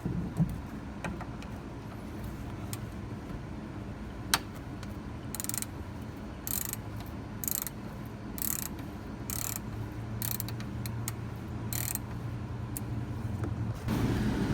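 Ratchet wrench with a hex bit loosening the oil drain plug on a BMW N20's plastic oil pan. A few separate clicks come first, then a run of short ratcheting strokes about once a second.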